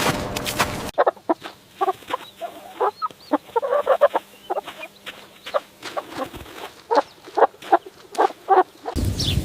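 A chicken clucking in a run of short, irregular clucks. It follows about a second of dense rustling noise at the start.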